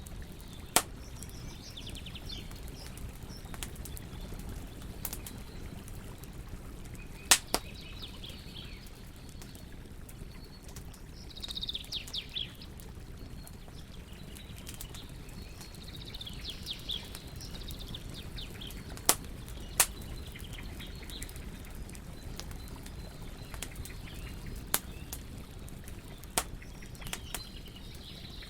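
Wood campfire burning with a low steady rush and a sharp crackling pop every few seconds, a few of them loud. Small birds chirp in short bursts in the background.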